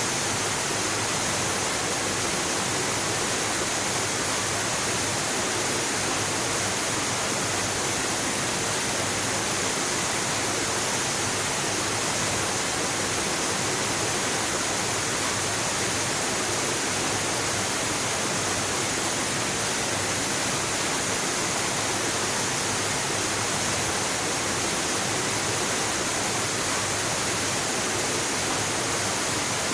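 Waterfall, a steady rush of falling water with no change or distinct events.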